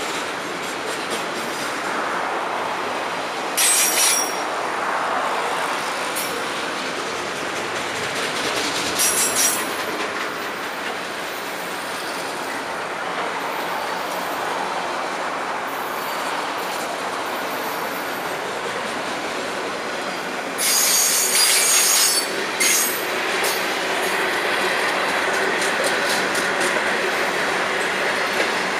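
Long freight train's cars rolling past with a steady rumble and rattle of wheels over rail joints. Short high-pitched wheel squeals cut in about four seconds in, again around nine seconds, and a longer bout of squealing near the twenty-one second mark.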